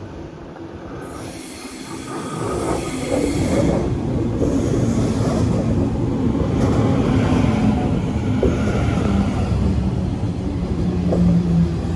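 Sydney suburban electric train pulling into the platform, growing louder over the first few seconds and then running steadily past with wheel and rail noise.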